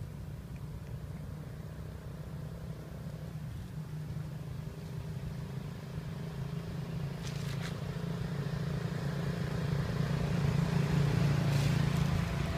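A motor engine running steadily with a low hum, growing louder over the second half.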